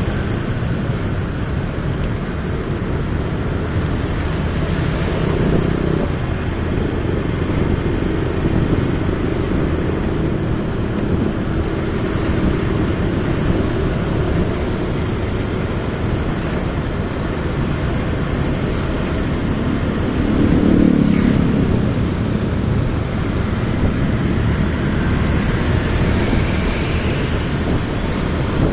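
Motorcycle riding through city traffic, its engine running under steady road and traffic noise. The engine note or passing traffic swells briefly twice, about five and twenty seconds in.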